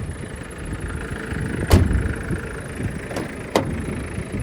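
One sharp knock a little under two seconds in, then two lighter clicks about half a second apart near the end, over a steady low rumble.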